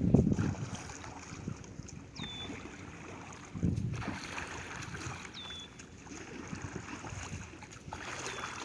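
Oar strokes in the water as a sled is paddled like a boat, a swell of sloshing about every four seconds, with wind on the microphone. A short high chirp sweeps down and holds, repeating a few times.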